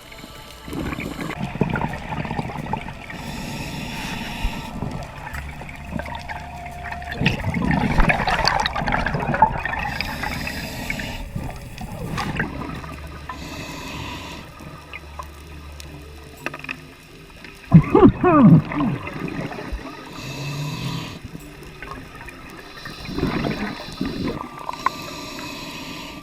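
Underwater scuba sounds: a diver's regulator breathing, with exhaled bubbles gurgling in recurring surges. The loudest bubble burst comes about two-thirds of the way through.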